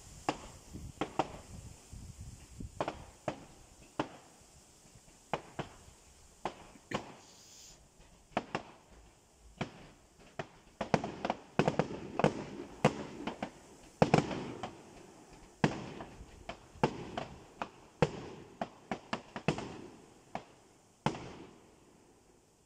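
Fireworks going off in an irregular string of sharp bangs and crackles, busiest and loudest about halfway through.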